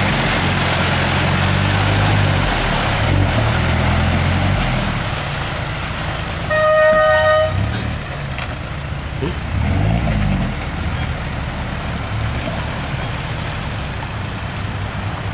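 Jackaroo turbo diesel engine running and being revved up and down, with a second rev about ten seconds in. A car horn toots once for about a second, around seven seconds in.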